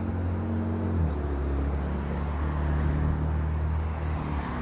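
A road vehicle's engine running close by, a steady low hum whose pitch steps down about a second in and shifts again near the end, over general street noise.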